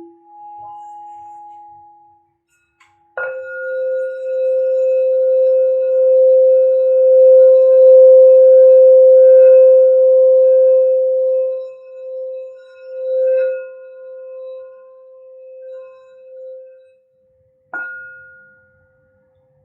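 A singing bowl rings out: one bowl's tone is dying away at the start, then a bowl is struck about three seconds in. Its single deep ring swells and holds for several seconds before wavering and fading. A lighter strike near the end sets it ringing again.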